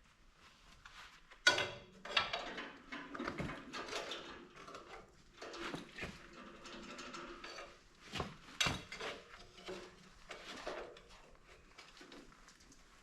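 Steel tools clanking and scraping against a rust-seized steering drag link ball joint as it is pried at, with a sharp metal clank about a second and a half in and another about halfway through.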